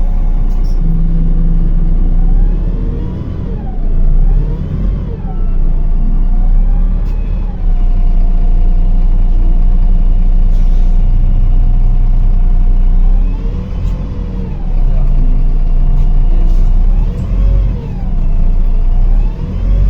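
Inside a MAZ-105 articulated city bus on the move: a steady low engine and road rumble, with a drivetrain whine that rises and falls in pitch several times and holds level for a few seconds midway.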